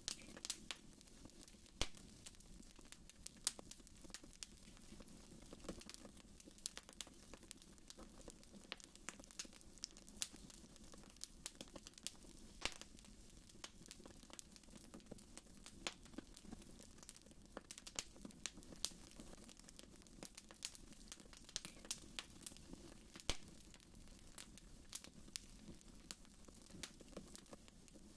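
Fire in a fireplace crackling, with irregular sharp pops and snaps over a faint low steady hum.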